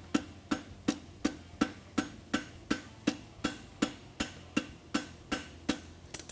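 Farrier's hammer striking a hot steel horseshoe bar on the anvil in a steady rhythm of sharp blows, just under three a second, while the lateral side of a concave shoe is worked.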